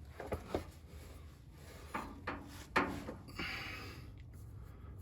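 Loose driveshaft carrier bearing on a 1995 Nissan D21 pickup knocking in its mount as it is moved about, with a short rubbing scrape about three and a half seconds in. The looseness is the worn carrier bearing that is the source of the truck's long-running whirring noise.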